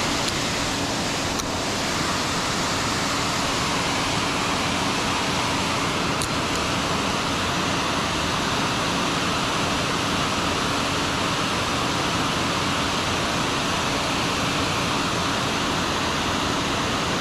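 Steady rush of water pouring below a dam, an even hiss with a faint low hum underneath and a couple of faint clicks.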